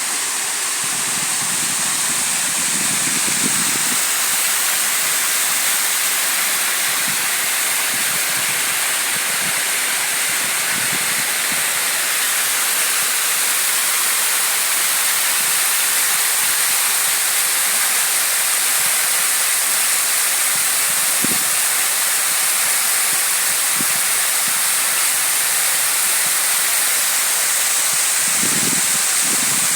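Waterfall rushing steadily, a loud even hiss of falling water, with a few faint low thumps near the end.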